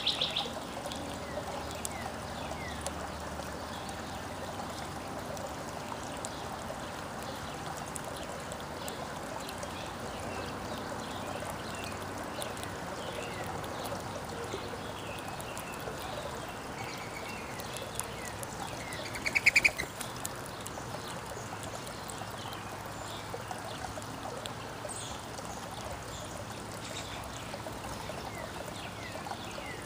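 Backyard songbirds chirping and calling here and there over a steady trickle of running water. About two-thirds of the way through, one bird gives a short, loud, rapid stuttering call.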